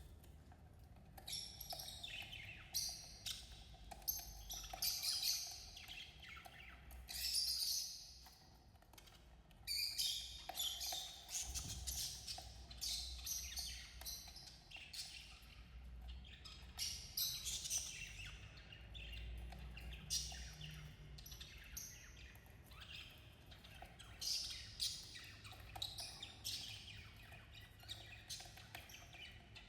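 Budgerigars chirping and chattering: a dense run of short, high chirps and warbles, coming in irregular clusters throughout.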